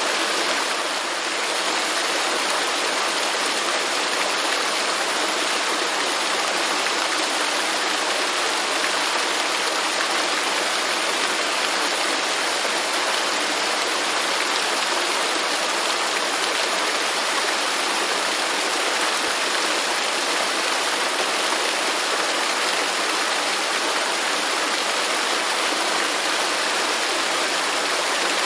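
Waterfall: a steady rush of falling water, even and unbroken, with a slight dip in loudness about a second in.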